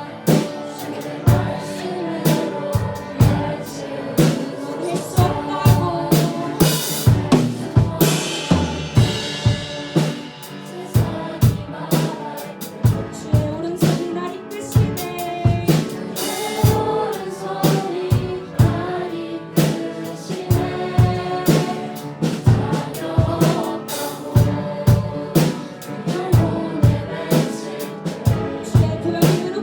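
Live worship band playing a praise song: a drum kit keeps a steady beat with snare and bass drum under piano and sung vocals.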